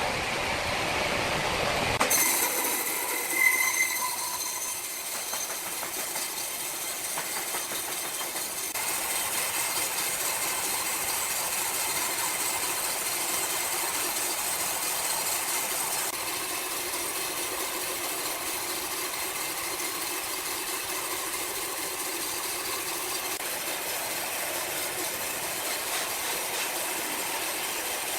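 Sawmill machinery running with a steady mechanical noise. The sound changes abruptly about two seconds in, and a brief high squeal follows a second or so later.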